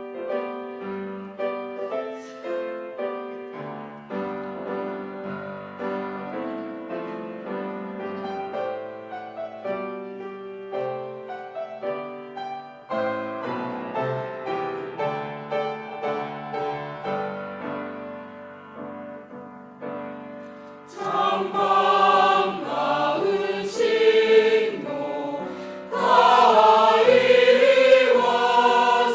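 Piano playing a slow introduction, then a choir comes in singing with piano accompaniment about two-thirds of the way through, noticeably louder.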